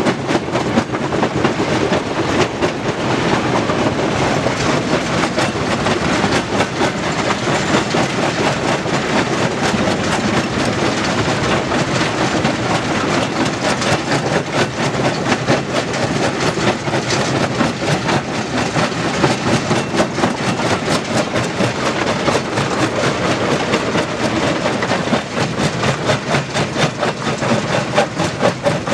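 Stone crusher running, with a dense, continuous clatter of rock being broken and rattling through the machine.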